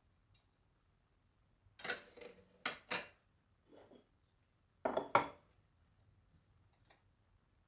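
Dishes and cutlery being handled: a handful of separate clinks and knocks, in a group about two to three seconds in and two more about five seconds in.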